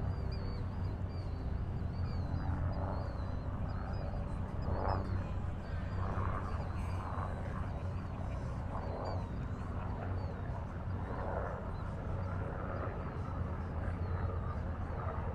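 Harbour ambience: a steady low engine rumble from boat or aircraft traffic, with faint high bird chirps in the first few seconds and indistinct calls scattered through.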